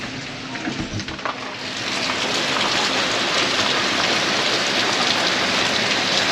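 Heavy rain pouring down in a thunderstorm, a dense steady hiss that swells louder about two seconds in.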